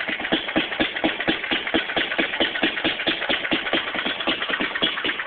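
Fairbanks-Morse Z Style D 1½ hp hit-and-miss stationary engine running, with a quick, even beat of several strokes a second.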